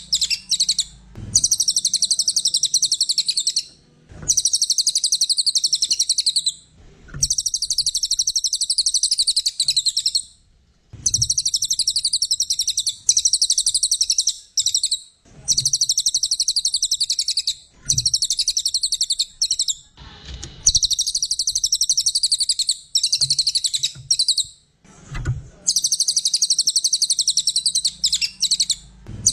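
A cililin songbird singing hard in long, rapid, high-pitched chattering phrases of a few seconds each, separated by short pauses, with faint low knocks in some of the pauses.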